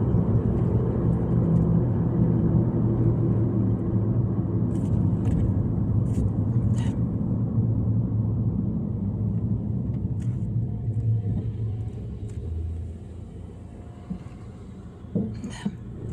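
Car road and engine rumble heard from inside the moving car, steady at first, easing off about twelve seconds in and picking up again at the very end, with a few light clicks.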